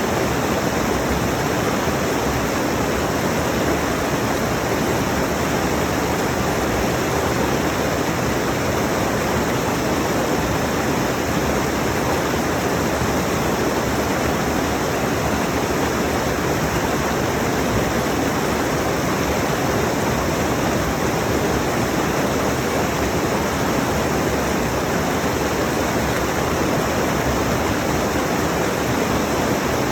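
Mountain stream rushing over rocks: a loud, steady rush of water without break or change.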